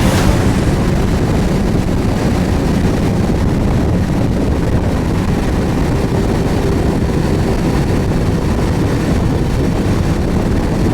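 Suzuki GSX1250FA motorcycle on the move: a steady rush of wind on the microphone with the engine running underneath.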